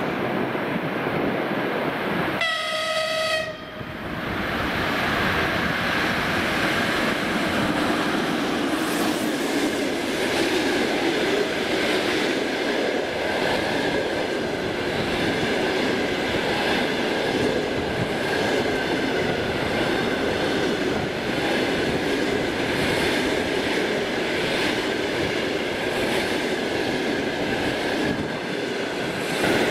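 The EP2K electric locomotive gives a short horn blast about three seconds in. Then its passenger coaches pass close by at speed, with a steady rolling rumble, the wheels clicking over rail joints, and a faint steady high tone running through.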